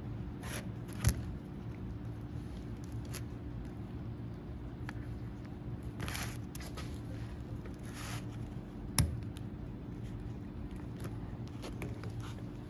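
Hand work fitting new hydraulic cylinder seals: brief scrapes and rustles of parts and tools being handled, with two sharp clicks, about a second in and about nine seconds in, over a steady low hum.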